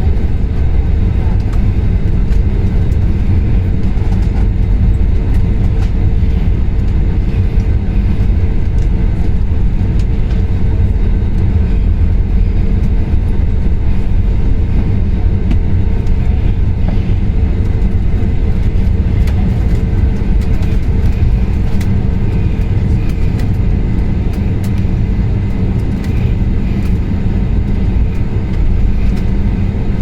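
Steady low rumble of a moving vehicle heard from inside, with a faint constant hum and scattered small clicks.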